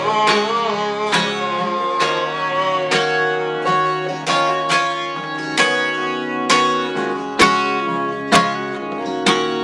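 Acoustic guitar playing an instrumental passage, one chord struck about every second and left to ring, with two harder strikes near the end.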